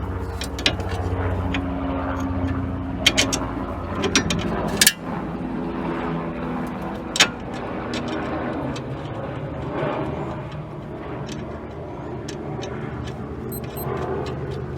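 Scattered metallic clicks and clinks of hand tools and suspension hardware as a new front sway bar end link is fitted, over a steady low hum.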